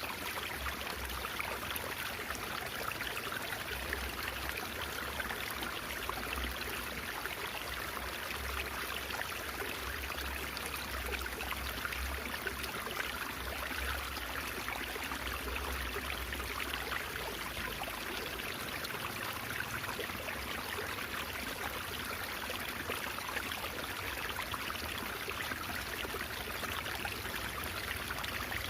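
Steady babbling, trickling water of a shallow stream, running on without change.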